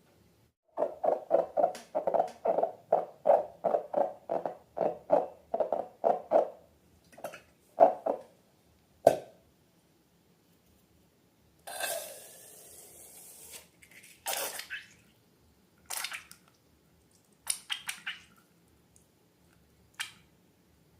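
Slime being worked by hand, with sticky squishing and popping. A quick run of squelches, about four or five a second, lasts for roughly six seconds. After that come scattered clicks and crunches, and about two seconds of hissing midway.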